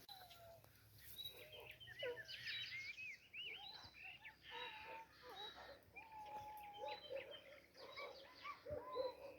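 Small birds chirping and singing in many short, quickly changing phrases.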